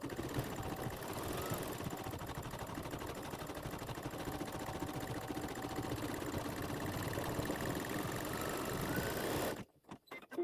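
Embroidery machine running steadily, rapidly stitching a small satin-stitch fill; it stops abruptly near the end as the section finishes.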